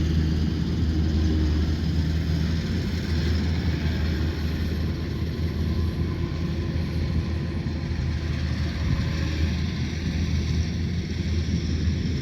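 Rice combine harvester running steadily at work, its engine a loud, even low drone.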